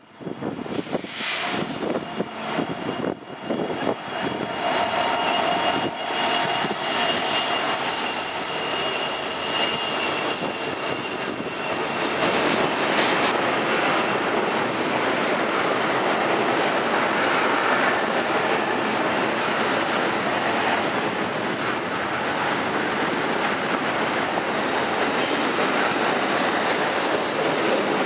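A freight train passing: diesel locomotives go by with high, steady wheel squeal for about the first twelve seconds, then the double-stack container cars roll past in a louder, even rumble with the click of wheels over the rail joints.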